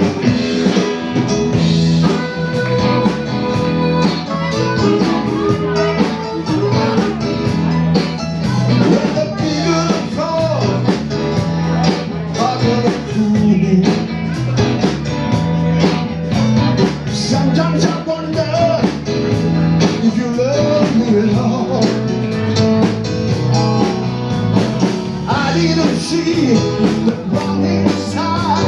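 Live blues trio playing a blues number with guitar over a steady beat and a repeating bass line.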